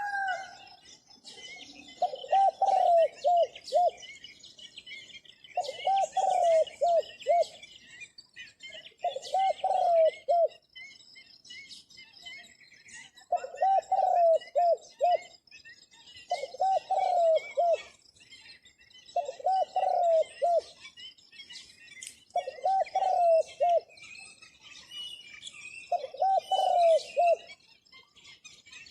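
A zebra dove cooing its song eight times, each phrase a quick run of rolling coo notes lasting about a second and a half, repeated every three seconds or so. Small birds chirp faintly in the background.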